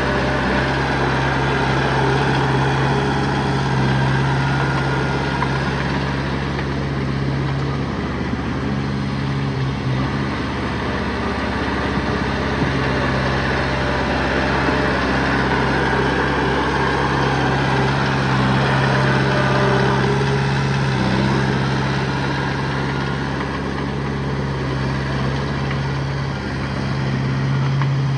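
Diesel engine of earthmoving machinery running steadily at an even speed, with a constant low hum.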